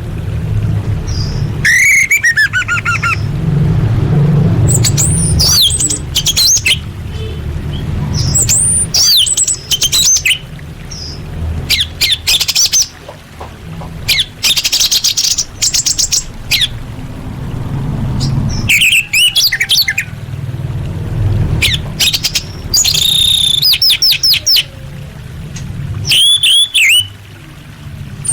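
Orange-headed thrush (anis merah) singing a long, varied song of whistled glides, fast trills and chattering phrases in quick succession, with short pauses between bursts. A steady low rumble runs underneath.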